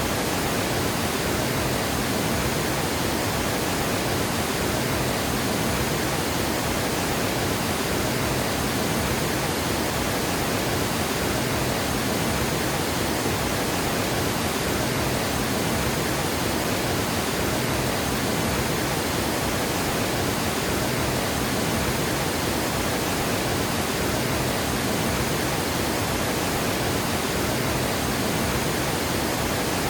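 Water gushing over a dam spillway: a steady, unbroken rush.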